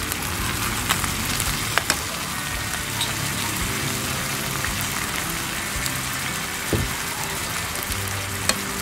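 Chicken feet sizzling in a frying pan in soy sauce and vinegar, a steady hiss, with a few sharp clicks of a plastic spoon against the pan as it is stirred.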